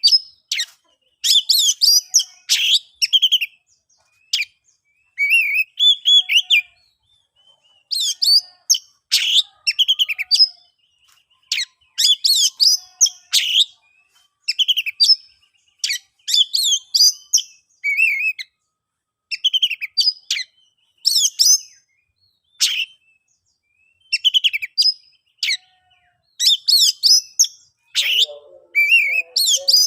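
Oriental magpie-robin singing loud: a run of short, varied whistled phrases with quick glides in pitch, separated by brief pauses.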